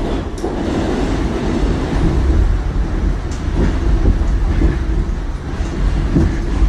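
New York City subway train running, a loud steady rumble with no speech over it.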